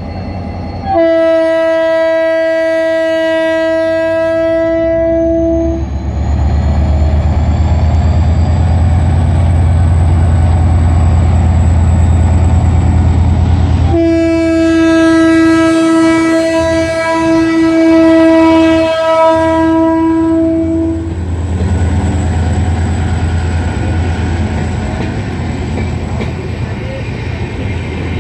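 EMD GT22CW-2 diesel-electric locomotive departing with its train: two long air-horn blasts, the first about five seconds, the second about seven seconds with a couple of brief dips, over the steady low rumble of the diesel engine pulling away. A high whine rises just after the first blast.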